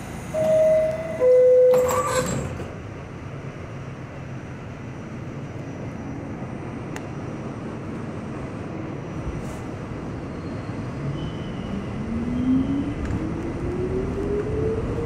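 Inside an R68 subway car: the two-note descending door chime sounds, the doors close with a bang, then the car rumbles as the traction motors' whine rises steadily in pitch as the train pulls out and speeds up.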